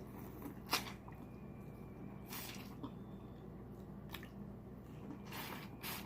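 Close-up wet eating sounds from seafood: four short smacks and slurps, the second and fourth longer.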